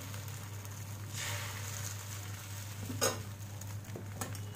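Freshly poured egg batter sizzling faintly in an oiled nonstick pan over a low gas flame, a steady light hiss, with a couple of light clicks near the end.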